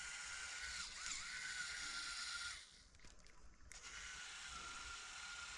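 Faint steady outdoor ambience: a high hiss with a thin steady tone running through it, which drops out for about a second near the middle.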